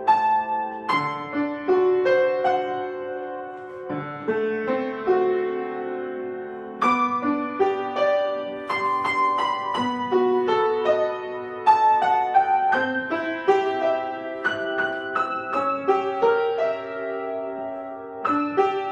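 Solo piano playing a melody over chords at a moderate pace, each note struck and fading.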